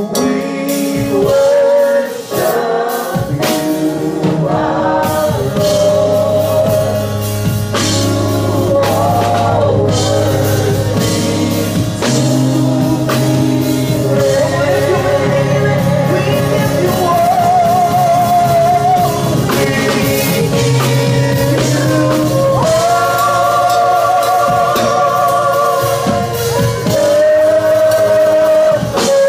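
Gospel worship music: voices singing long, wavering held notes over a band with bass and drums.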